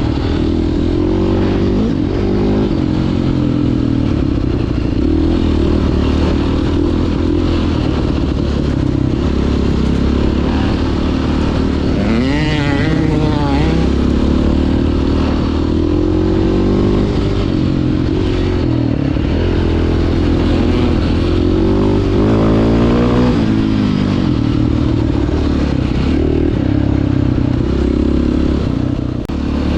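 Dirt bike engine running on a trail ride, its pitch rising and falling as the throttle is worked, with a sharp rev up about twelve seconds in and another rising climb around twenty-two seconds.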